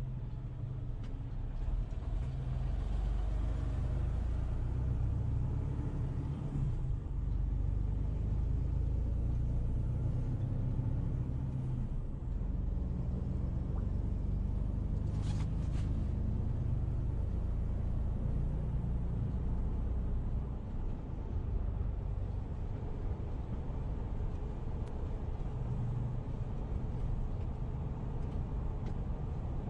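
Steady low rumble of a vehicle on the move, with a few quick clicks about halfway through.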